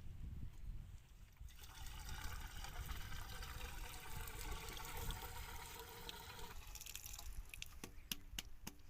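Pumped irrigation water flowing and trickling from a plastic pipe, with a few sharp clicks near the end.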